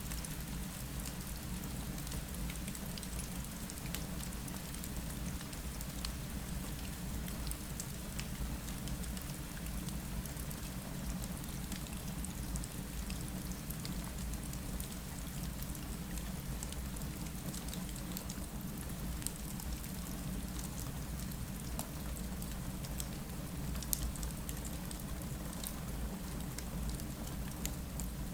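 Steady rain falling against a window, an even hiss with scattered sharp little ticks over a low steady rumble.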